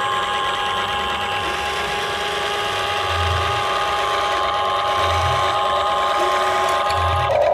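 Small electric gear motor of a toy vehicle whirring steadily with a fixed whine, and a soft low thump about every two seconds.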